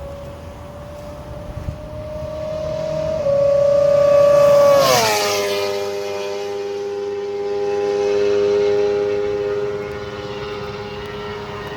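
A 600cc sport motorcycle at high revs, climbing in pitch as it approaches and stepping through a gear change about three seconds in. It passes loudest about five seconds in with a sharp drop in pitch, then holds a steady lower note as it pulls away.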